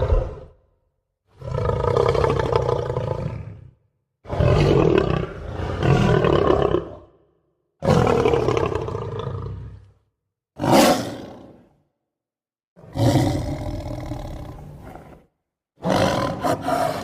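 Lion roaring: a string of about six separate roars, most two to three seconds long and one much shorter one about eleven seconds in, with brief silences between them.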